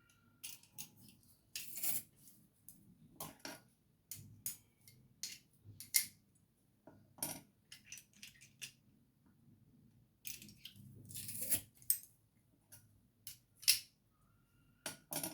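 Irregular metallic clicks and short scrapes from a garlic press being squeezed and handled, garlic cloves being pressed.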